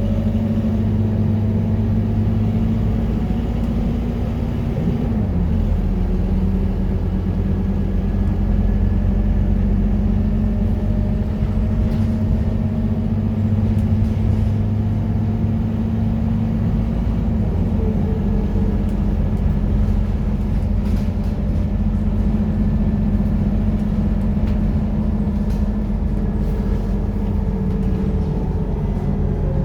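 Scania K230UB bus's diesel engine running under way, a steady low drone whose note steps down about five seconds in and again a little past halfway.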